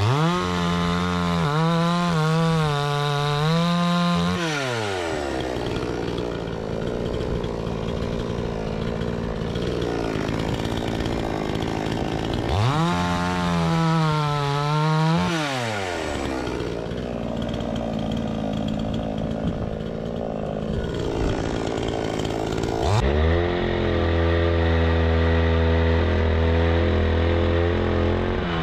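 Two-stroke petrol chainsaw revved three times: each time the engine climbs quickly to full throttle and holds there. The first two fall back to a lower, rougher running after about three seconds, and the third is still held at high revs near the end.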